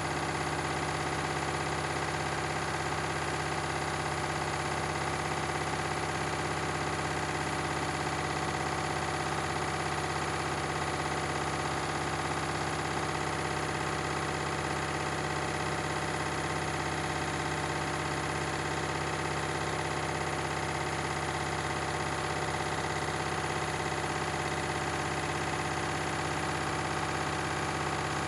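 Beko and Candy washing machines spinning at a steady speed: a constant motor whine over a drum hum, made of several steady tones that hold without rising or falling.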